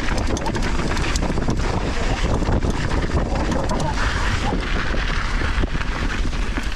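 Wind buffeting an action camera's microphone as a mountain bike runs downhill on loose volcanic soil. The tyre rumble and the bike's rattle come through as many short, sharp clicks.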